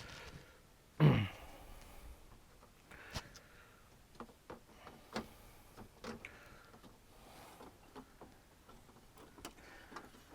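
Scattered clicks and knocks of a flat-screen TV's plastic and metal parts being handled and fitted back together, with one louder scraping knock that slides down in pitch about a second in.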